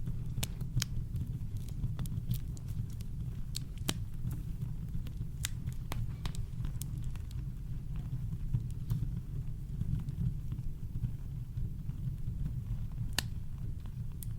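Campfire crackling: irregular sharp pops and snaps, a few louder ones, over a deep, steady rumble of brown noise.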